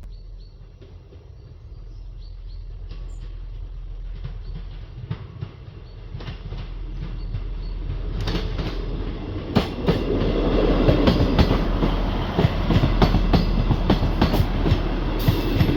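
ScotRail Class 158 diesel multiple unit approaching and running past, growing steadily louder with a low rumble. From about eight seconds in come rapid clicks of the wheels over the rail joints.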